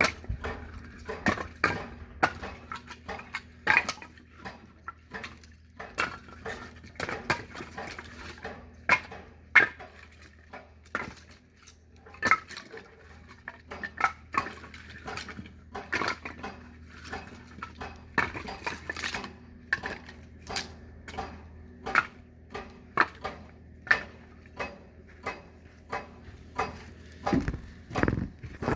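Irregular sharp wooden knocks and clatter of firewood being split and handled, about one or two a second, over a faint steady low hum.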